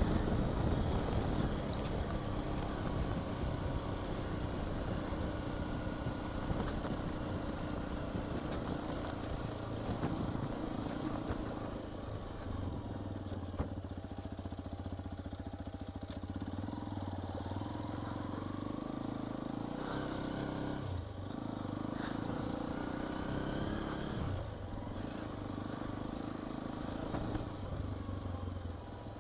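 Hero XPulse 210's single-cylinder engine running as the motorcycle is ridden off-road, its pitch rising and falling with the throttle and briefly dropping off twice in the second half.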